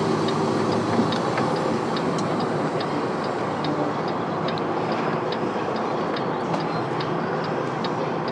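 Semi-truck cab noise with the diesel engine running while manoeuvring slowly, and a steady light ticking of about three clicks a second from the truck's flasher relay.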